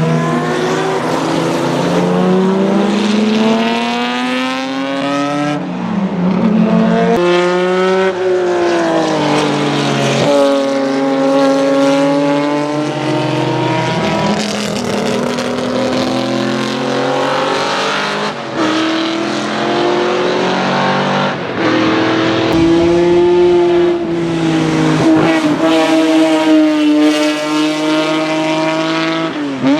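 BMW E9 3.0 CSL Group 2 race car's 3.2-litre straight-six racing engine, loud, revving up through the gears and dropping in pitch as the car passes, over a run of short passes that change abruptly from one to the next.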